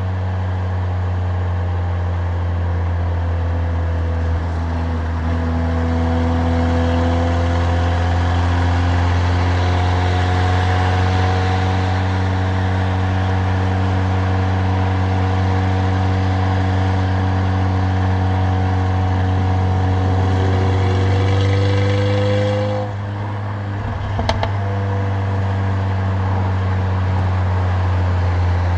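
Stage 2 tuned Mercedes-AMG CLA45's turbocharged 2.0-litre four-cylinder, with a loud exhaust, droning at cruise, its note climbing slowly for about twenty seconds. A little over twenty seconds in the sound drops suddenly, a click follows, and the engine settles back into a steady drone.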